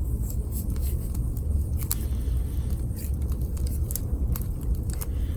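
Wood campfire with scattered small crackles over a steady low rumble.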